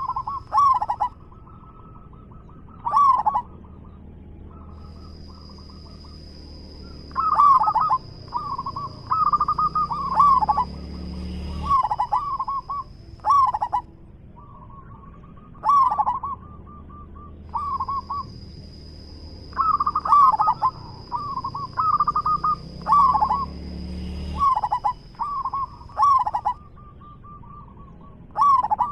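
Zebra dove cooing over and over: phrases of quick, rolling coo notes every one to three seconds. A faint steady high-pitched whine comes and goes behind the calls.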